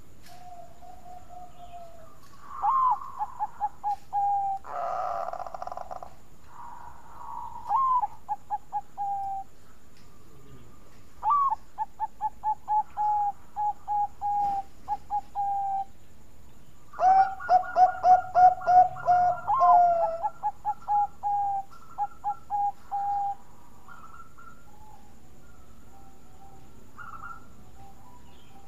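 Bangkok-type zebra dove (perkutut) singing: several cooing phrases, each an opening note followed by a rapid run of short, evenly spaced coos, the loudest phrases about two-thirds of the way through.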